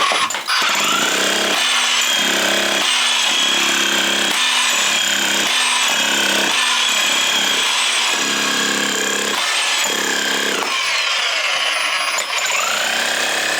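Electric breaker (demolition hammer) running continuously as it chisels up an old floor, a steady loud hammering noise with a lower hum that swells and fades about once a second.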